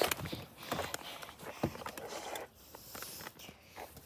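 Footsteps of a person running, an irregular series of short thuds that grows quieter after about two and a half seconds.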